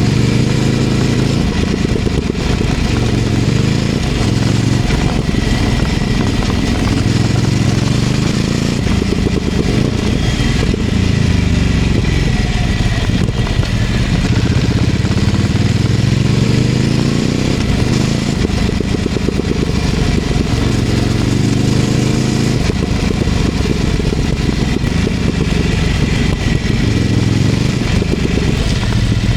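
Ducati Scrambler 800's air-cooled L-twin through a LeoVince LV-10 exhaust, riding along with the revs rising and falling several times.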